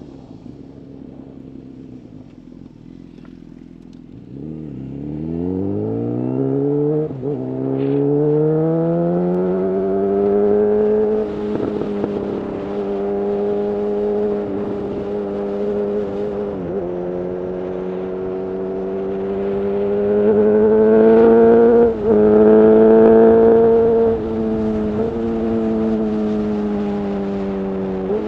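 Honda CB1000R inline-four engine through a full Black Widow exhaust, heard from the rider's seat: low and quieter for the first few seconds, then the revs climb steeply with a short break about seven seconds in. It settles into a steady cruise with a few brief dips and grows louder for a stretch near the end.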